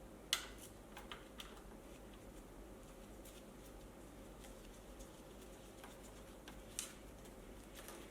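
A few light clicks and taps of tools and metal parts being handled during reassembly, the sharpest about a third of a second in and another near the end, over a faint steady hum.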